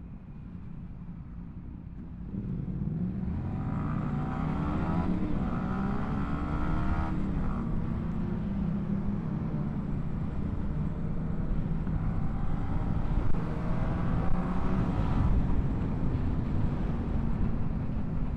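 Motorcycle engines accelerating hard: from about two seconds in the sound gets louder and the engine pitch climbs, drops back at gear changes, then holds steady at speed. Wind and road rush runs underneath.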